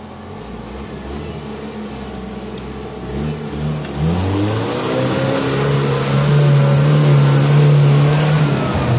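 UAZ-469 engine revving up under load as the jeep climbs out of a muddy gully. The revs rise about three to four seconds in, are held high and steady for several seconds, then ease off near the end.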